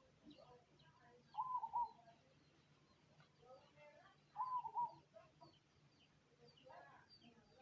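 Zebra dove (perkutut, the black cemani variety) cooing: two short, loud, broken coo phrases about three seconds apart, with faint high chirps of other small birds in the background.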